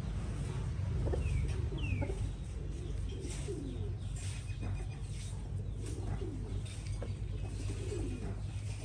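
Birds giving low, falling coo-like calls every second or two, with a couple of short high chirps about a second and two seconds in, over a steady low hum and scattered light clicks.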